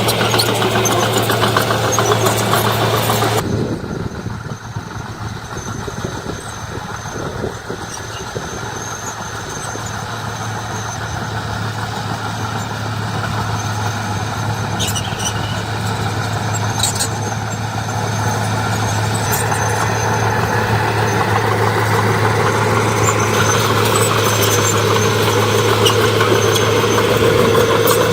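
Diesel engine of heavy earthmoving equipment running steadily. It is loud for the first few seconds, drops off sharply, then slowly grows louder again over the rest, with a couple of brief sharp ticks near the middle.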